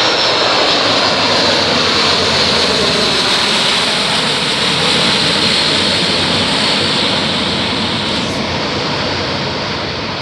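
Airplane engines running loud close by: a steady rushing noise with a high whine that drops away about eight seconds in.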